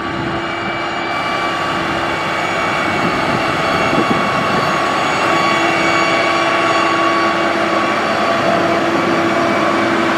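Heavy diesel construction machinery running steadily under load, with a held whine and hum over the engine noise. It gets a little louder over the first few seconds.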